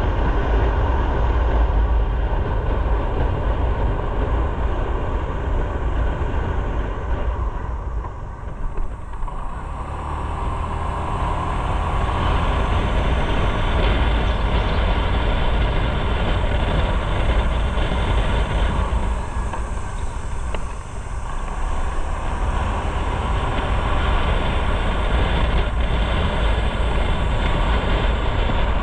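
Motorcycle on the move: engine running under heavy wind rumble on the microphone, easing off briefly twice.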